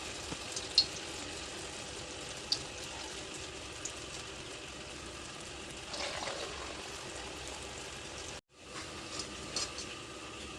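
Masala vada (urad dal fritters) frying in hot oil: a steady sizzle with scattered small crackles. The sound cuts out for a moment about eight and a half seconds in.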